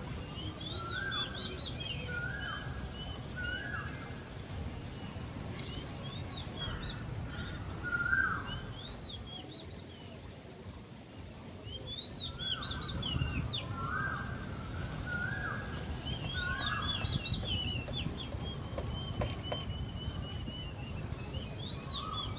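Birds calling: short chirps that rise and fall, repeated in runs of three or four, over a steady low rumble.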